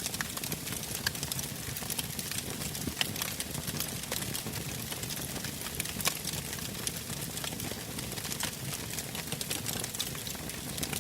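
Wood campfire burning, with frequent irregular crackles and pops from the firewood over a steady low rush of the flames.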